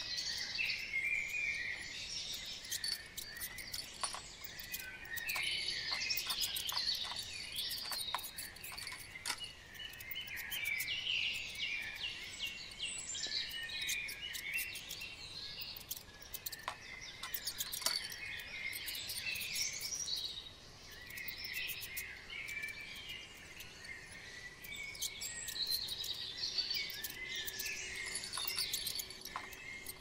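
Songbirds singing and chirping, several overlapping, in phrases that come and go throughout, with scattered sharp clicks among them.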